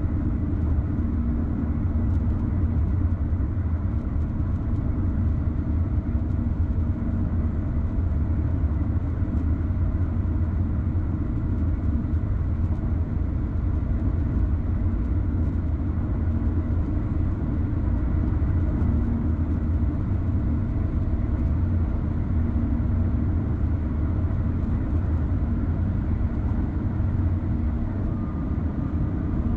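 Car driving at a steady speed, a continuous low rumble of tyre and engine noise.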